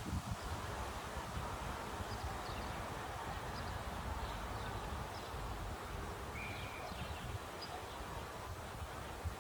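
Wind blowing through a eucalyptus tree, its leaves rustling steadily, with low wind rumble on the microphone. Faint short bird chirps come through now and then.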